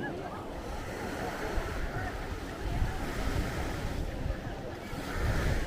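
Sea waves washing onto the beach, with wind gusting on the microphone.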